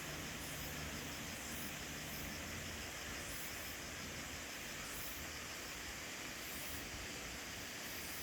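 Steady outdoor background noise: an even hiss over a low rumble, with a faint, fast, high-pitched pulsing during the first few seconds.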